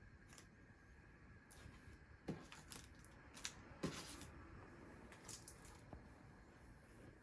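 Near silence: quiet room tone with a few faint short clicks and rustles, the loudest about two and four seconds in.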